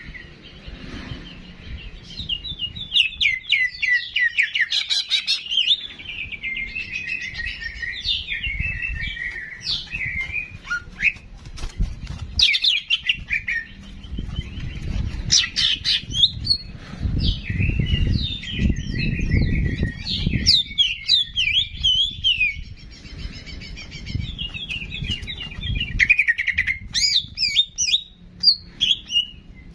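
Cucak jenggot (grey-cheeked bulbul) singing a long, unbroken run of quick, varied chirps and warbling trills. A low rumble runs underneath, strongest around the middle.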